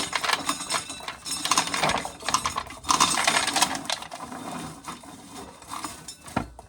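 Corn sheller stripping dry kernels off an ear, the kernels clattering down in a fast, dense rattle that thins out after a few seconds.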